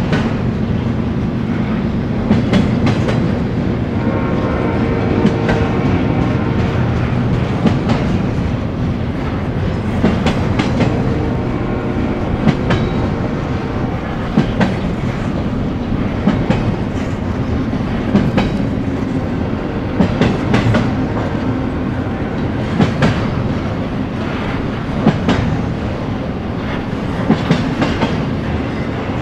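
Union Pacific freight train's cars rolling past: a steady rumble with short clicks of the wheelsets, often in pairs, every couple of seconds.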